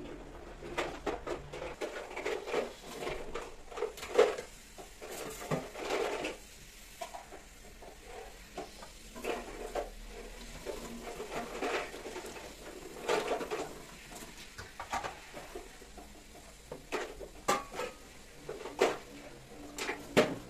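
Irregular light knocks and clatter of small hard objects being handled, in scattered clusters.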